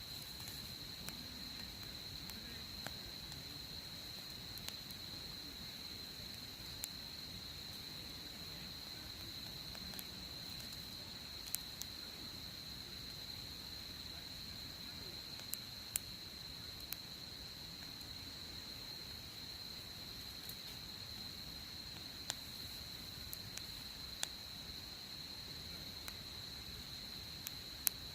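Wood campfire crackling, with sharp pops every few seconds, over a steady, high, unbroken insect trill.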